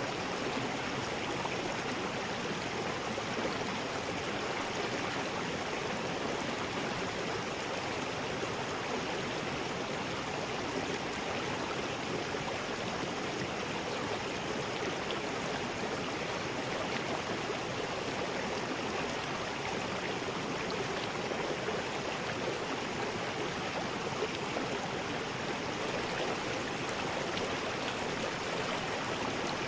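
River rapids: water rushing steadily over rocks, an even roar without breaks.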